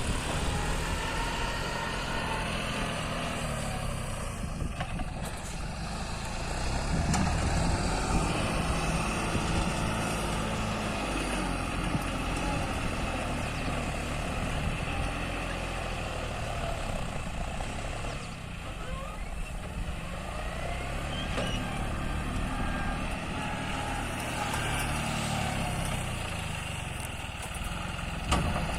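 Tractor engine running steadily under work, its note rising and falling a few times.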